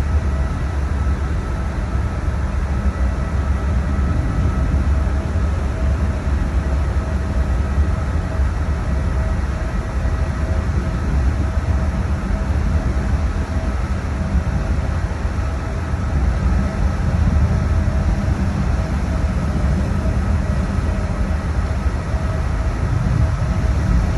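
A ferry's engines running as the vessel comes in to its berth: a steady low rumble with a faint, even whine above it.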